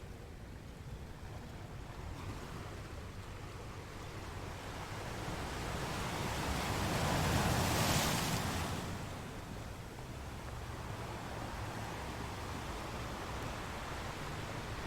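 Ocean waves crashing on rocks: a steady wash of surf that swells into one bigger wave breaking about halfway through, then dies back.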